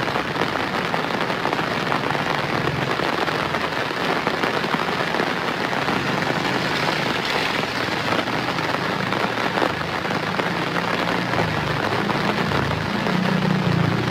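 Steady heavy rain falling on surfaces, an even hiss and patter. A low rumble rises underneath it near the end.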